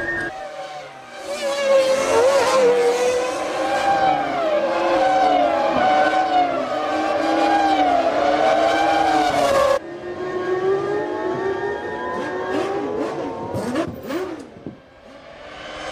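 1998 Formula One cars' 3-litre V10 engines at racing revs, the pitch rising and falling through gear changes. About ten seconds in the sound cuts abruptly to another shot, and near the end engines sweep past with a falling pitch before fading briefly.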